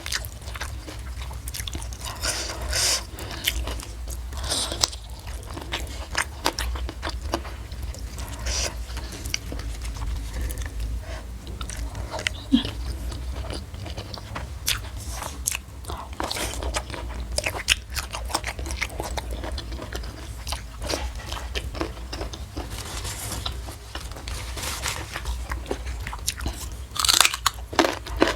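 A person biting and chewing crunchy food close to the microphone, with wet crunches coming in bursts throughout. The food is a mukbang meal of raw vegetables such as young jengkol and petai with fried fish. A steady low hum runs underneath.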